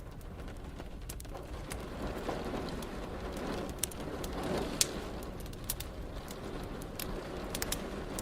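Wood fire crackling with scattered sharp pops over a steady hiss of rain and a low rumble that swells around the middle.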